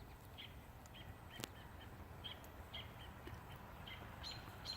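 Faint, short, high bird chirps repeating at irregular intervals, with a single sharp click about a second and a half in.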